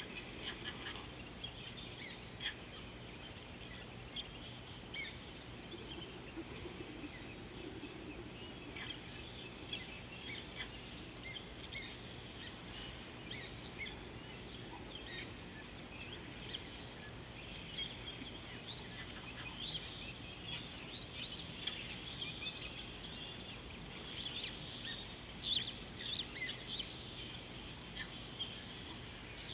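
Wild birds calling and chirping in the bush, many short calls coming thickest near the end, over a steady outdoor background hiss.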